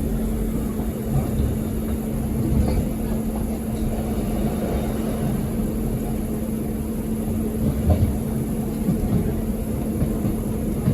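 Inside a moving passenger train: the carriage's running noise, a steady low rumble with an even drone, and a few brief knocks from the wheels and track, the loudest about eight seconds in.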